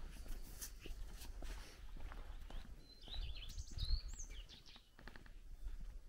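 Small songbird giving a quick run of high chirps about halfway through, over footsteps on a dirt path and low wind rumble.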